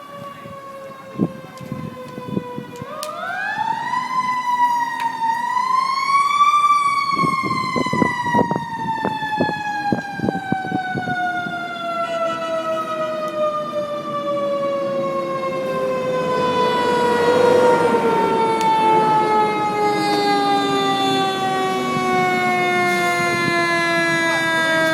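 Fire truck siren wailing: it winds up sharply a few seconds in, then falls slowly and steadily in pitch as it winds down. Scattered sharp pops can be heard in the first half.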